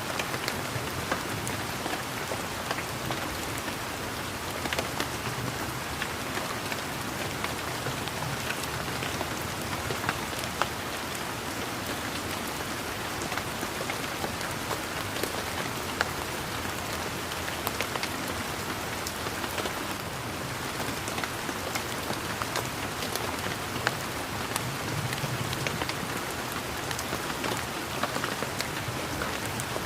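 Steady rain falling on garden foliage and ground, a dense, even patter with scattered louder individual drops.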